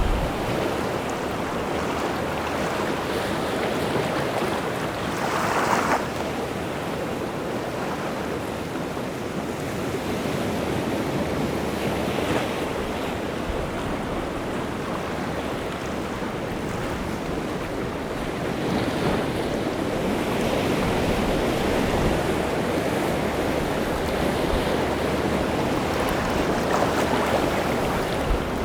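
Rough, wind-whipped sea surf washing onto the shore: a steady rush that swells with a breaking wave about every six or seven seconds.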